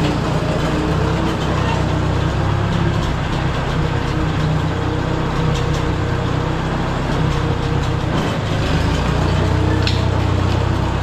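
Case 310 bulldozer's engine running steadily, a deep, even machine drone; its note shifts about eight seconds in.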